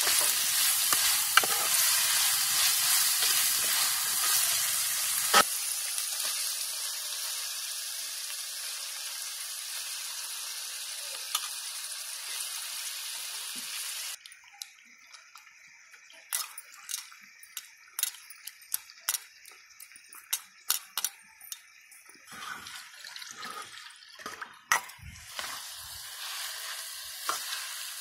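Onions and masala sizzling in hot oil in an aluminium pot, with a metal slotted spoon scraping and knocking as it stirs. About halfway the sizzle drops away suddenly and a run of sharp taps and knocks follows as marinated fish pieces go into the pot, then the sizzle builds again near the end as they fry.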